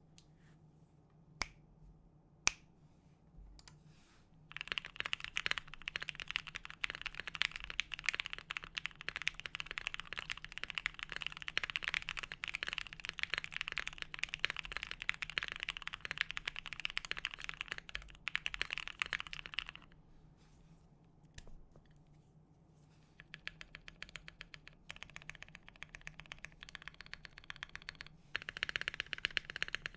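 Typing on a Bakeneko60 mechanical keyboard with lubed Thic Thock Marshmallow linear switches on an FR4 plate, with GMK-style clone keycaps. A couple of single key presses come first. Fast, continuous keystrokes start about four seconds in, pause around twenty seconds, then resume.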